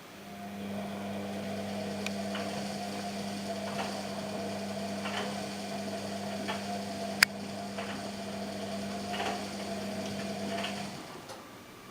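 Washing machine running: its motor hums steadily as the drum turns, then stops about eleven seconds in. Light knocks sound now and then, with one sharp click about seven seconds in.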